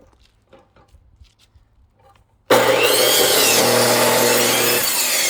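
Faint knocks of wood being handled, then about two and a half seconds in a corded electric cut-off saw starts abruptly at full loudness and cuts into a log, its whine sweeping up and down under load.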